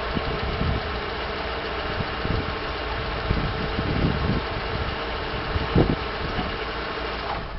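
Daewoo Nubira's 1.6-litre DOHC 16-valve four-cylinder engine (A16DMS) idling steadily.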